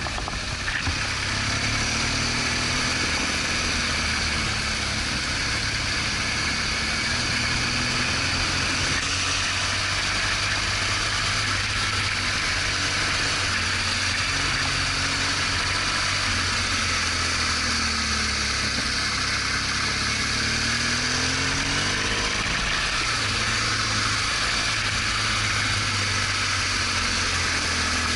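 BMW R1200GS Adventure's boxer twin engine running under way, its pitch drifting slowly up and down with throttle, over a steady rush of wind and road noise.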